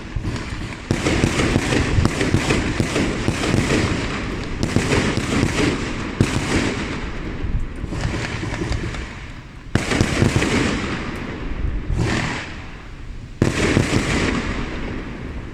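Fireworks going off across the city: a dense, continuous run of overlapping bangs and crackles over a low rumble. A few louder bangs stand out near the end.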